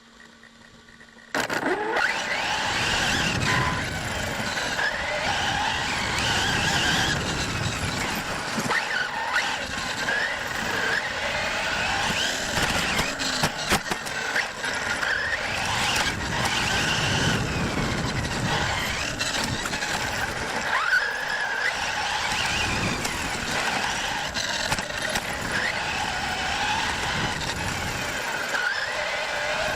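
Radio-controlled cars running laps on a track: motor whine rising and falling again and again as they accelerate and slow, over a steady rushing noise. The sound starts abruptly about a second and a half in.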